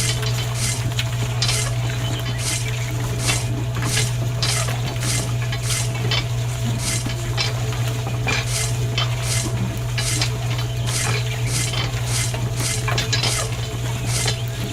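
A steady low hum with short scraping or clinking strokes repeating about two to three times a second over it.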